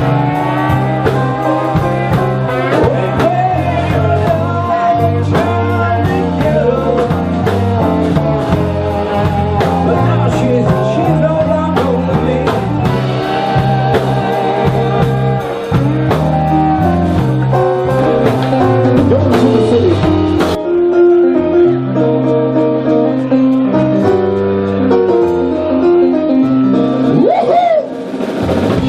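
Live blues-rock band playing: electric guitar with bending lead lines over bass and a drum kit with steady cymbal strokes. About two-thirds of the way in the drums and cymbals stop, leaving the guitar and bass playing on.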